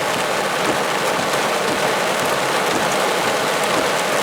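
Heavy rain pouring down steadily, an even, dense hiss of water on the ground and street.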